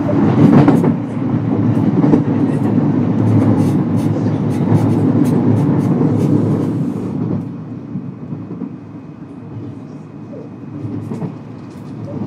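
Onboard running noise of a JR West 223 series 0 electric train: wheels rumbling on the rails with scattered sharp clicks, dropping noticeably quieter about seven seconds in as the train slows on its approach to a station. A faint steady high whine, typical of the Hitachi IGBT-VVVF inverter, sounds in the quieter part.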